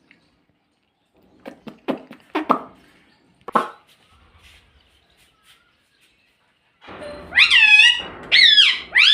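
Pet rose-ringed (ring-necked) parakeet calling: a few short chattering sounds, then near the end three loud calls in quick succession, each rising and then falling in pitch.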